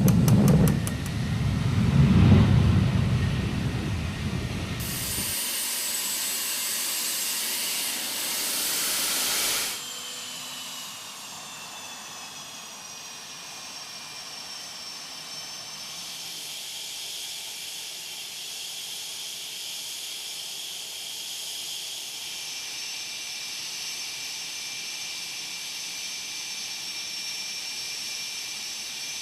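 Jet aircraft engines: a heavy low rumble, then a loud rushing hiss, then a high turbine whine that falls a little in pitch and settles to a steady tone. The sound changes abruptly twice, about five and ten seconds in.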